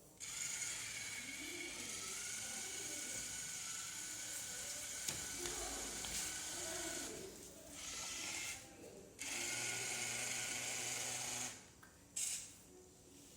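Fire Bird V robot's DC gear motors whirring as it drives. The whir runs for about seven seconds, then stops and starts in shorter spurts with brief pauses.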